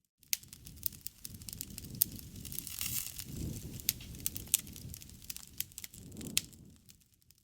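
Wood fire crackling, with irregular sharp pops and snaps over a low rush of flames that swells twice.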